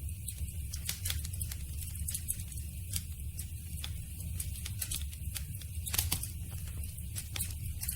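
Campfire of burning wood crackling, with a steady low rumble of flames under frequent irregular sharp pops; one louder crack about six seconds in.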